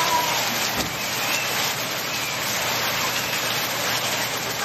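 Heavy rain pouring onto a wet street and lawn, a steady hiss.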